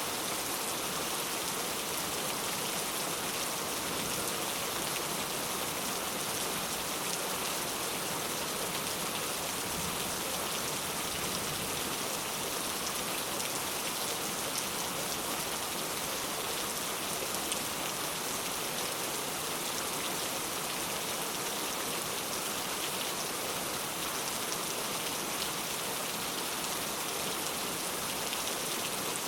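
Steady rainfall, an even hiss of many drops hitting a surface, with fine patter of individual drops.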